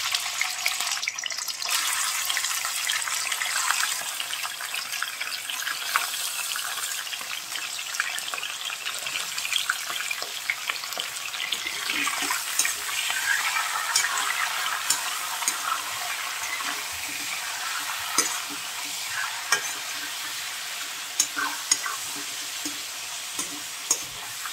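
Raw chicken pieces sizzling and crackling in hot oil in a kadhai, with a metal spatula scraping and clinking against the pan as they are stirred. The clinks come more often in the second half.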